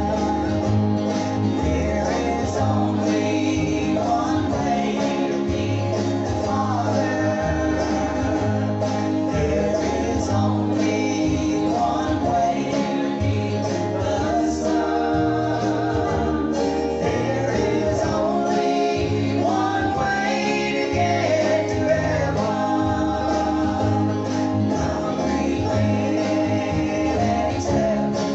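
A gospel singing group performing a song live, singing with guitar accompaniment.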